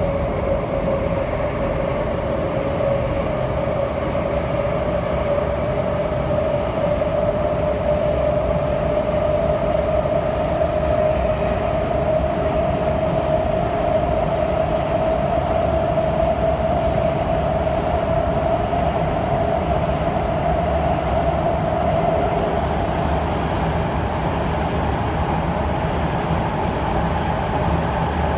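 C151 electric train running at speed, heard on board: a steady traction-motor whine that slowly climbs in pitch over most of the stretch and then eases slightly, over the constant rumble of the wheels on the track.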